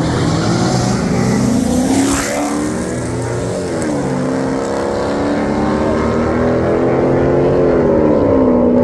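Car engine accelerating hard through the gears. Its pitch climbs, falls at a gear change about three and a half seconds in, climbs slowly again, and falls at another shift near the end.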